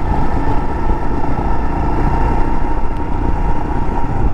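Motorcycle running steadily on the move, its engine and road noise making a continuous low rumble with a steady hum.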